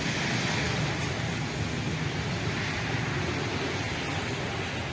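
A Boeing 747's four jet engines running steadily for takeoff, heard as a continuous even rushing noise.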